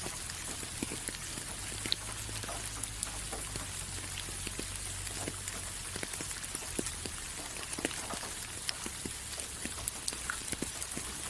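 Steady rain with a hiss and many separate drops ticking and pattering irregularly on a surface.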